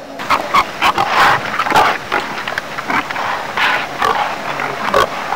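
A man eating noisily with his mouth open: a fast, irregular run of loud, wet chewing smacks and slurps.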